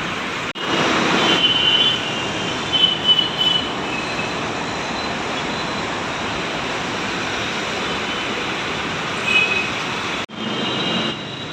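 Steady rushing noise of passing transport with brief high squeals, about two seconds in and again near the end. The noise drops out sharply for a moment about half a second in and again near the end.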